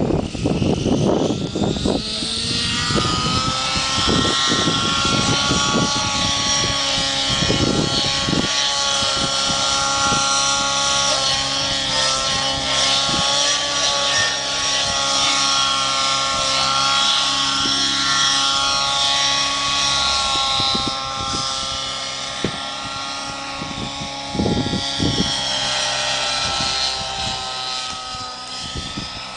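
Align T-Rex 700 nitro RC helicopter's engine and rotors running. Its pitch climbs over the first few seconds, then holds steady with slight wavering. Gusts of wind buffet the microphone, strongest near the start.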